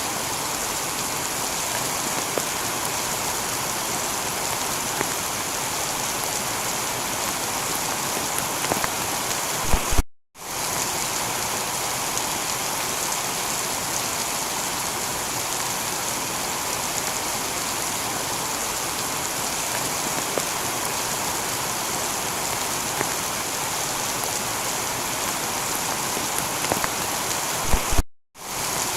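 Steady heavy rain pattering on a tiled roof. The sound cuts out for a split second twice, about ten seconds in and near the end, each time right after a brief louder swell.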